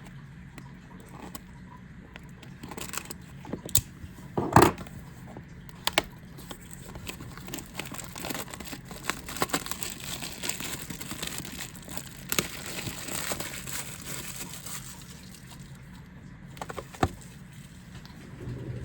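Plastic and foil packaging of a trading-card booster box being handled, crinkling and tearing, with denser rustling in the middle and a few sharp knocks and clicks.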